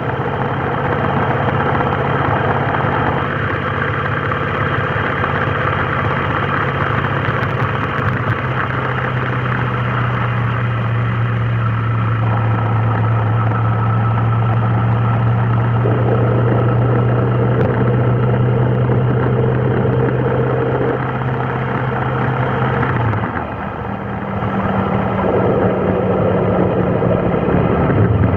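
Vehicle engine idling and creeping in a traffic jam: a steady low drone that dips briefly about 23 seconds in, then returns.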